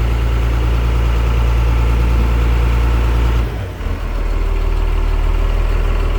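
Boat engine running with a loud, steady low drone; about three and a half seconds in the note changes and briefly dips before settling into a slightly different, pulsing hum.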